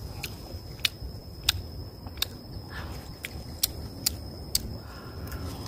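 Crisp crunches of a person chewing raw, unripe green guava, coming irregularly a little more than once a second.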